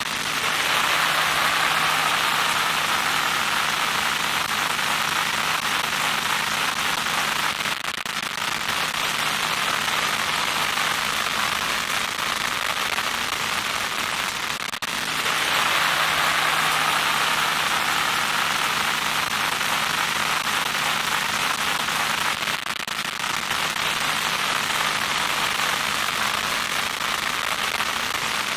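Loud crackling static hiss, strongest in the upper-middle range, over a steady low electrical hum. It repeats as a loop about every fifteen seconds, brightest near the start and again just after halfway.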